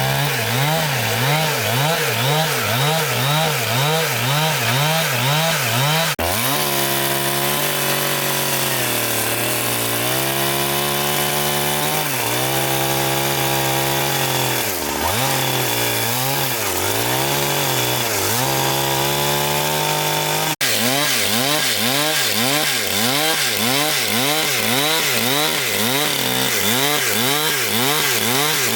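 Petrol saw engine running under load as it cuts through a log into boards, its pitch wavering rhythmically about two to three times a second. About six seconds in the sound changes abruptly to a steadier pitch with a few dips, then switches back to the wavering rhythm about twenty seconds in.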